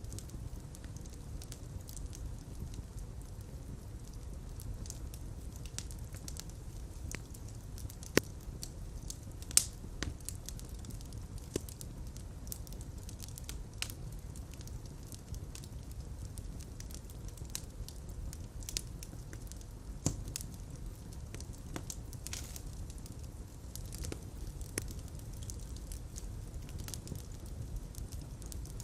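Fireplace fire crackling: a steady low rumble of flames with scattered sharp pops and snaps, the loudest a little under ten seconds in.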